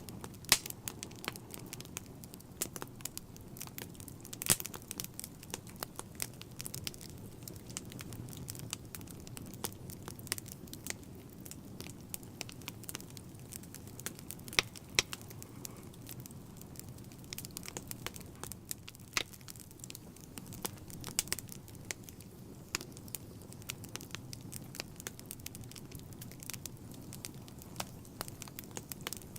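Wood fire burning in a fireplace: a steady low rumble of flames with frequent sharp pops and crackles of burning logs, a few of them much louder than the rest.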